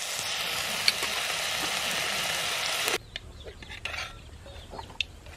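A curry sizzling in an aluminium pot over a wood fire as a steel ladle stirs it, a steady hiss with a sharp tap about a second in. The hiss cuts off at about three seconds, leaving a quieter stretch with a few light clicks.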